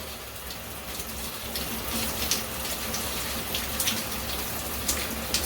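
Shower water running steadily, spraying and splattering onto a parrot on a shower perch, with scattered light splashes.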